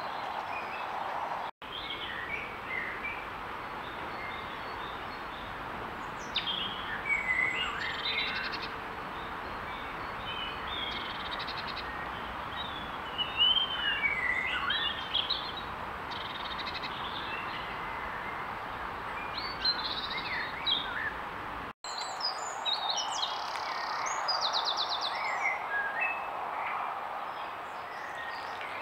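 Background birdsong from several small birds, with short chirps and song phrases scattered throughout over a steady hiss. The sound cuts out for an instant twice.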